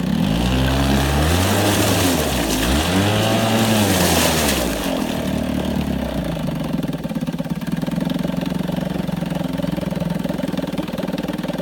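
1953 Evinrude Lightwin 3 hp two-stroke twin outboard motor running: it is revved up and back down twice over the first few seconds. It then settles to a smooth, steady idle, freshly rebuilt and running well.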